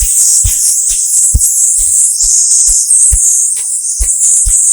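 The lung healing sound of Taoist qigong: one long, steady 'sssss' hiss breathed out through the teeth. Under it, a soft low beat repeats a little over twice a second.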